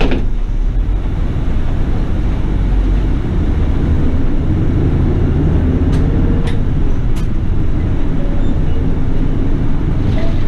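Diesel city bus running, heard inside the cabin: a steady low engine and road rumble, with a few sharp rattling clicks about six to seven seconds in.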